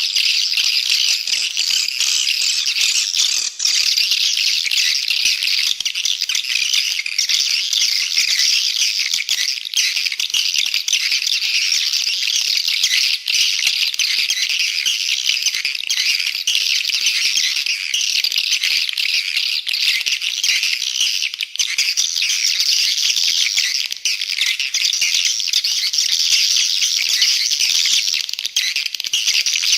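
A dense, unbroken chorus of swiftlet calls: high, rattling chirps and twitters layered over one another. It is a recorded call sound of the kind played in swiftlet houses to lure swiftlets in to roost and nest.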